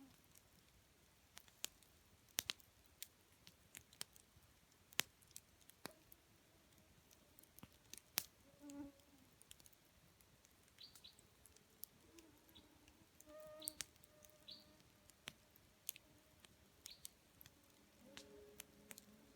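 Campfire wood crackling softly, with irregular sharp pops and snaps. A fly buzzes past briefly a few times.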